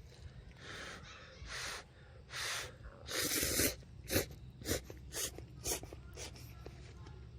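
A person slurping instant ramen noodles: several airy sucking slurps, one longer in the middle, then a run of short quick ones about two a second.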